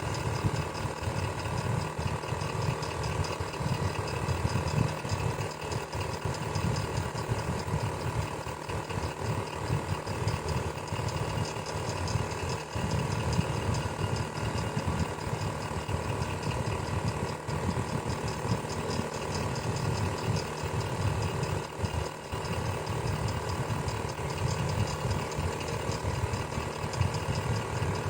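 Electric fan running steadily: an even motor hum with several constant tones and a rough, uneven low rumble beneath.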